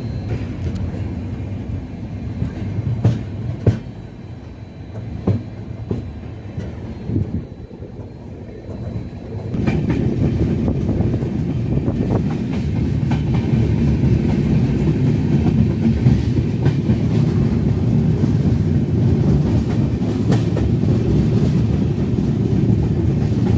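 The Uttar Sampark Kranti Express runs along the track with a steady rumble of its coaches, its wheels clacking over rail joints. About ten seconds in, the rumble grows much louder and stays that way.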